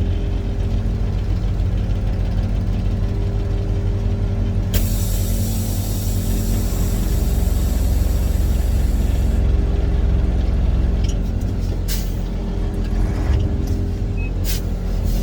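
International 4900 truck's diesel engine idling steadily, heard from the cab. About five seconds in, a loud hiss of air from the truck's air brake system starts suddenly and cuts off about four and a half seconds later, followed by a few sharp clicks.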